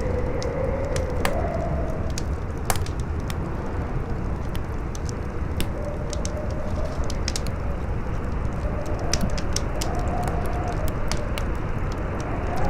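Campfire crackling, with frequent sharp pops and snaps at irregular intervals, over a steady howling wind whose pitch slowly wavers up and down.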